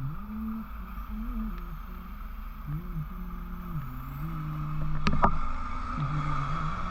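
Motorcycle engine running on the move, its pitch stepping up and down as the throttle opens and closes, over steady wind and road noise. A brief sharp click comes about five seconds in.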